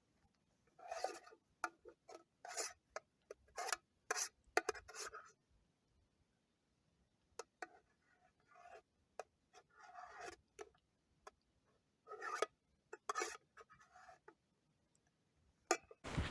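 Utensil scraping and clicking against a metal camp pot while food is eaten from it: irregular short scrapes and sharp clicks in small clusters, with quiet gaps between.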